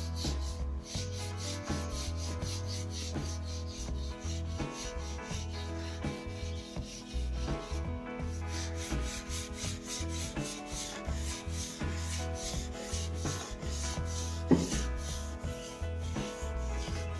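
Sandpaper rubbed back and forth along a new wooden snooker cue shaft in rapid, even strokes, with background music underneath.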